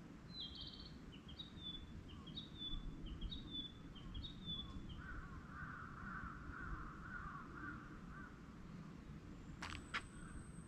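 Wild birds calling: a short high two-part call repeated five times, about once a second, then a rougher, lower call lasting a few seconds, over a steady low background rumble. A couple of sharp clicks sound near the end.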